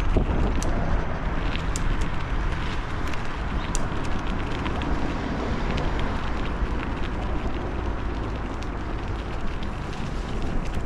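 Wind buffeting the microphone on a moving bicycle: a steady, loud rumble with scattered light clicks.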